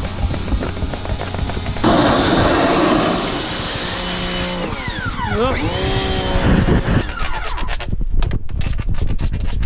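Electric pressure washer running and spraying. Its motor pitch dips down and comes back up about five seconds in, and a run of sharp irregular clicks follows near the end.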